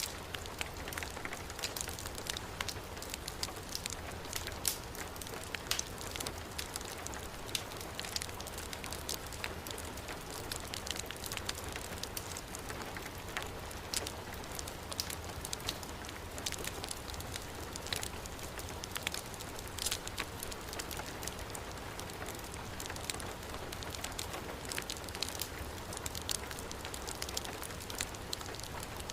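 Heavy rain falling steadily, mixed with a wood fire crackling and popping.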